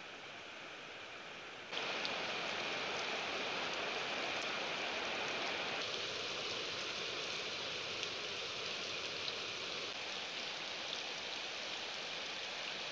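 Steady rain pattering onto a muddy yard with puddles, a continuous hiss of drops; it becomes suddenly louder about two seconds in.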